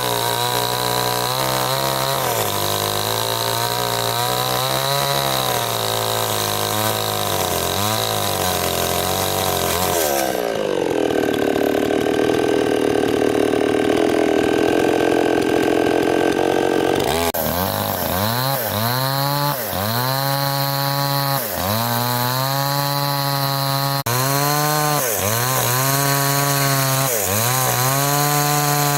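Small two-stroke chainsaw cutting wood. The engine labours unevenly under load, then runs at a high steady rev for several seconds midway. After that its pitch dips and recovers about every two seconds as the chain bites in again and again.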